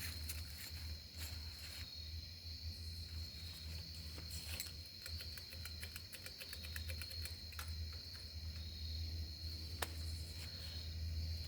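Steady high-pitched insect trill over a low steady hum, with a few faint clicks.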